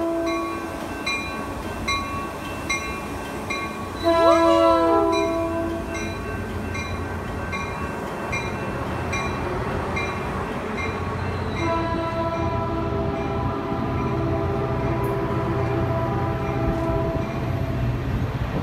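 Caltrain diesel locomotive air horn sounding its chord: a short blast about four seconds in that drops in pitch as the train passes, then a longer blast from about twelve seconds in over the rising rumble of a train. Through the first part a bell rings steadily about once a second, typical of a grade-crossing bell.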